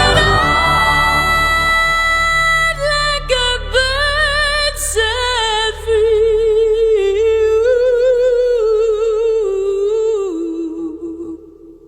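Closing bars of a pop ballad: a woman's voice holds a long note, then sings wavering phrases with vibrato over a soft low accompaniment, fading out near the end.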